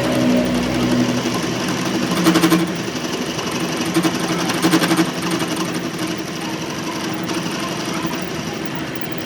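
Workshop machine running with a fast, steady rattle over a motor hum, swelling louder twice in the first half.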